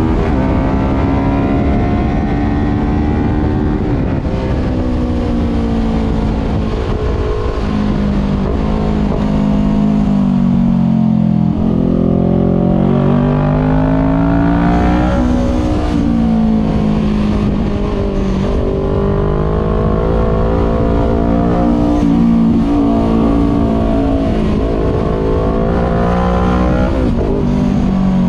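Voge 500R's 471 cc parallel-twin engine running through a full exhaust with the dB killer removed, heard from on board while riding. Its pitch rises and falls with throttle and gear changes: it drops about four seconds in, dips low around ten to twelve seconds, climbs again, then holds fairly steady before a final rise and drop near the end.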